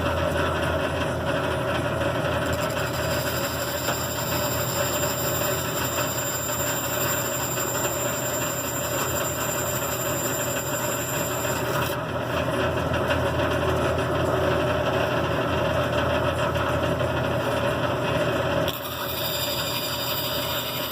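Band saw running steadily, a constant machine hum; the sound shifts and drops slightly near the end.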